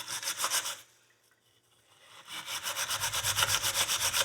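Steel wool scrubbing a steel horseshoe by hand in quick back-and-forth strokes. The strokes pause for about a second just after the start, then resume near the end.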